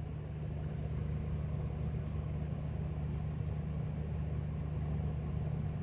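A steady low hum under a faint, even hiss.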